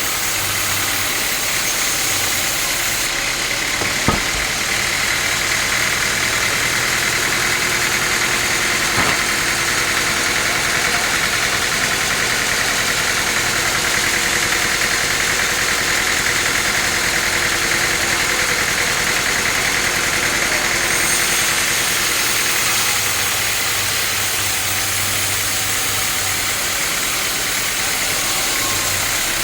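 Sawmill machinery running steadily with a loud, even mechanical noise, broken by a sharp knock about four seconds in and another about nine seconds in.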